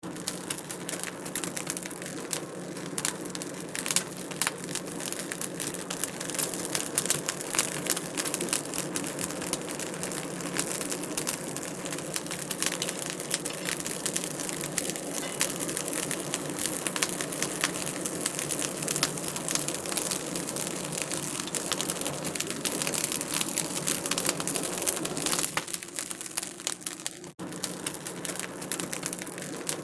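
Wood fire crackling in a fireplace: a dense, irregular stream of small pops and snaps over a steady hiss, dipping briefly near the end.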